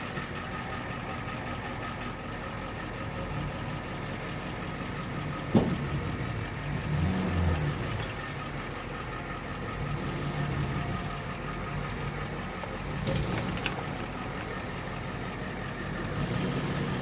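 Truck engine running under load as it tows a stuck truck out of the mud on a chain, with a sharp knock about five and a half seconds in and a smaller clunk around thirteen seconds.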